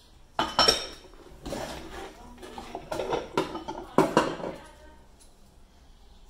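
Ceramic bowls clinking and knocking against each other and the stainless-steel sink as they are moved and set down: several separate clatters over the first four seconds or so.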